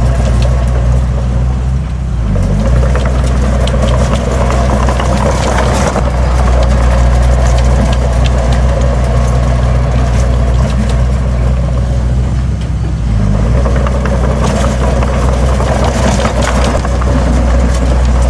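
Heavy diesel engine of earthmoving machinery running, a loud, steady low drone that eases off briefly about two seconds in and again about twelve seconds in, with scattered knocks and rattles over it.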